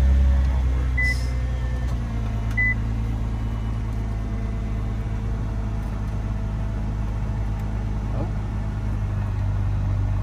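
Nissan GT-R's twin-turbo V6 idling steadily just after a restart, settling down from the start-up flare in the first couple of seconds. Two short high beeps sound about a second and a half apart near the start.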